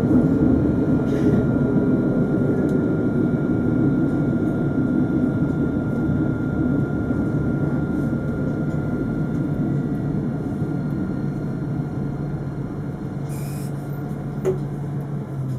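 Alstom Citadis 402 tram running on its rails with a steady rumble, a thin steady whine over it and a motor tone falling in pitch in the first few seconds. The sound grows gradually quieter as the tram slows, and a low hum stops suddenly at the very end.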